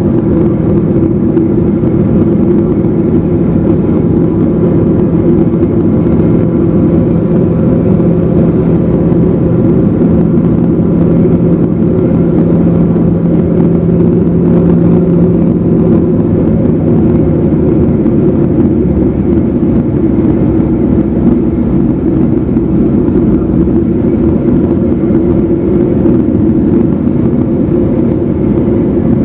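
Evektor SportStar light aircraft's engine and propeller running steadily in flight, a loud continuous drone; one of its lower tones fades out about two-thirds of the way through while the rest of the drone carries on.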